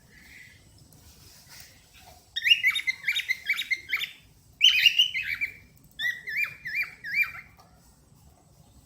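Cockatiel whistling: three short phrases of quick, warbling notes that bend up and down, starting a couple of seconds in, with brief pauses between them.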